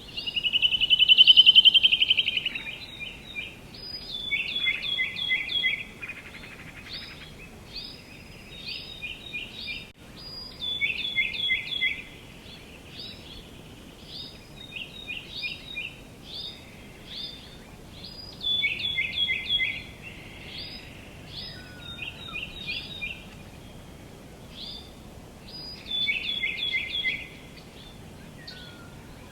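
Songbirds singing: repeated short phrases of quick descending chirps, coming in bouts every few seconds, with a louder buzzy trill about a second in, over a faint steady outdoor hiss.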